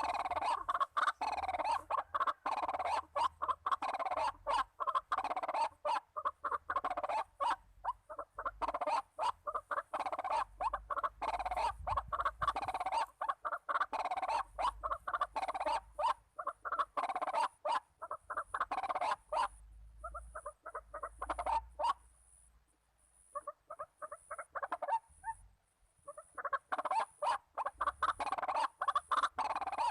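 White-breasted waterhen (ruak-ruak) calling: a long run of rapid, repeated croaking notes that thins out and falls nearly quiet for a few seconds about two-thirds through, then starts again.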